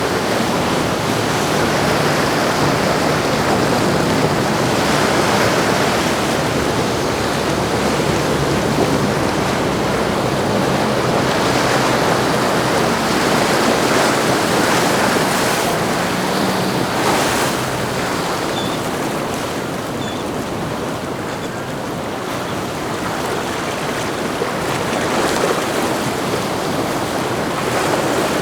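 Rushing, splashing water of a choppy inlet churned by a passing motor yacht's wake, with wind buffeting the microphone. A faint low engine hum sits under the water noise in the first half and fades about two-thirds of the way through.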